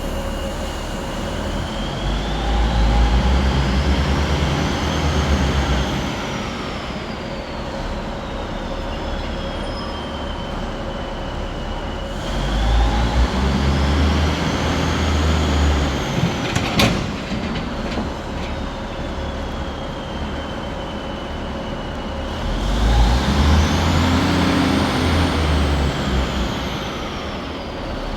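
Trains running, with a low rumble and the electric whine of the traction motors rising and then falling in pitch, three times over.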